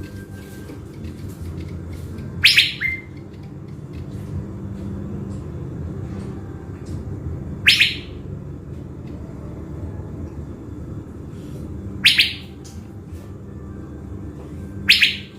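Caged thanh lam songbird, kept as a decoy for trapping, giving four loud, short calls, each a quick sweep upward, spaced about four to five seconds apart. A steady low rumble runs underneath.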